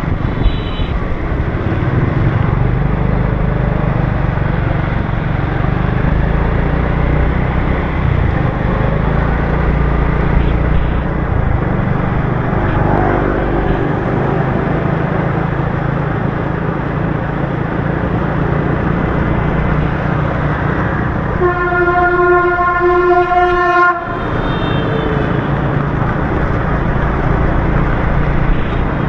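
Motorbike riding on a wet city road in the rain: a steady low engine and road rumble under a hiss of wet tyres and rain. About three quarters of the way through, a horn sounds one steady blast for about two and a half seconds and cuts off sharply.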